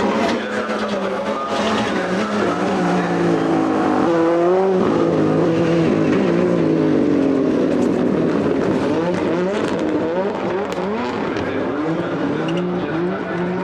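World Rallycross Supercars' turbocharged 2.0-litre four-cylinder engines revving hard. The pitch climbs and drops repeatedly as the cars shift gears and come off the throttle, with more than one engine overlapping in the second half.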